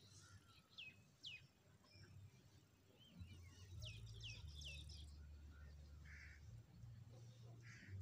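Faint, sharp chirps of small birds sweeping downward in pitch: two about a second in, then a quick run of several about three to five seconds in, over a low steady hum.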